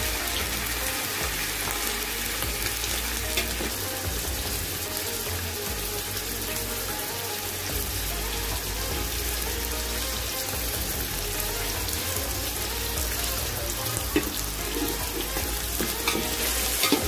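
Chicken pieces sizzling steadily in hot oil in an aluminium pot, with a few sharp clicks of a metal spoon stirring against the pot.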